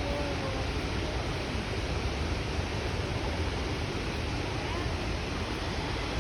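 Steady rushing noise of the Skógafoss waterfall, with no breaks or changes in level.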